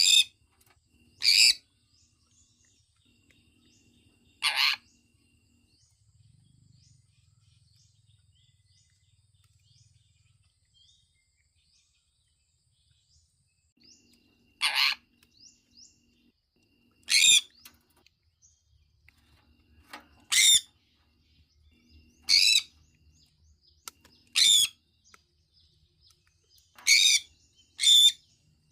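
Sun conure giving about ten short, loud calls a few seconds apart, with a quiet stretch of about ten seconds near the middle.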